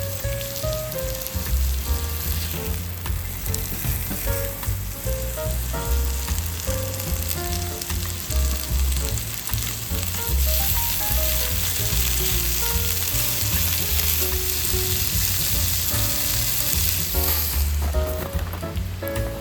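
Steady sizzling hiss over background music with a moving melody and a low pulsing bass line.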